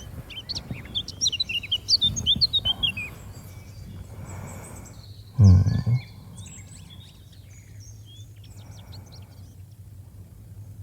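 Small birds chirping and twittering in quick runs of short high notes, busiest in the first three seconds and thinning out after. A single brief low thump comes about five and a half seconds in.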